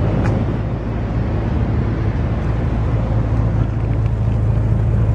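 The Bentley Continental GT's 6.0-litre twin-turbocharged W12 engine idling with a steady low hum.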